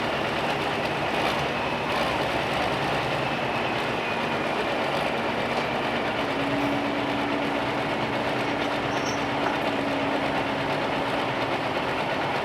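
Turbocharged diesel pulling tractor running hard under load on the track, a dense steady engine noise with a high turbo whine slowly falling in pitch over the first few seconds.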